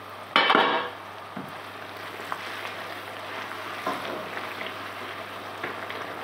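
Chopped onion, tomato and garlic sizzling steadily in butter in a nonstick pan, stirred with a spatula that gives a few light ticks against the pan. A short loud clatter comes about half a second in.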